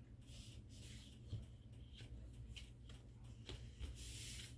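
Faint rustling and light clicks of items and packaging being handled, with a slightly longer rustle about four seconds in.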